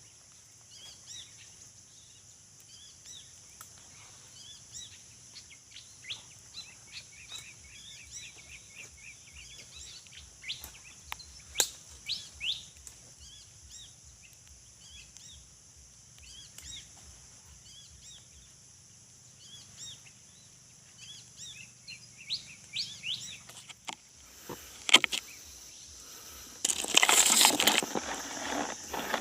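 Wild birds chirping in short calls over a steady high insect drone, with a loud rustling and scraping near the end.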